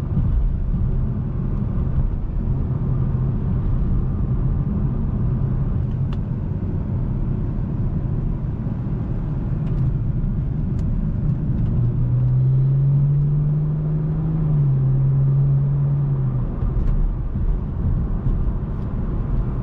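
Car engine running at low speed with steady low road rumble. Partway through, the engine note rises, steps down once, then fades out.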